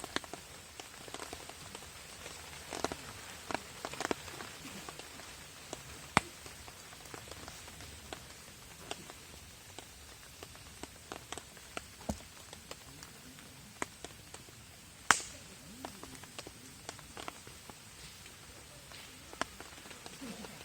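Rain falling on a camping tarp beside a crackling wood fire: a steady hiss of rain scattered with irregular sharp taps and pops, one pop much louder about fifteen seconds in.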